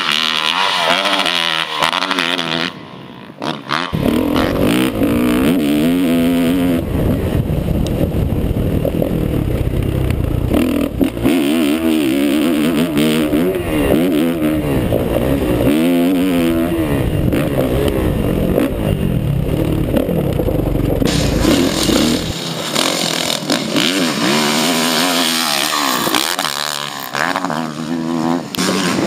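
Motocross bike engines revving up and dropping off again and again as riders throttle through jumps on a dirt track, with a brief dip about three seconds in.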